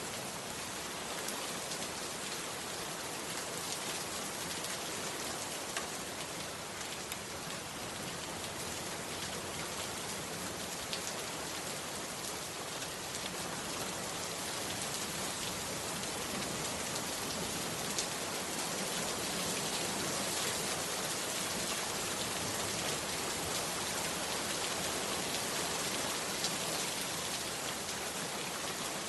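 Heavy rain falling steadily, a dense even hiss with scattered drop ticks, growing slightly louder about halfway through.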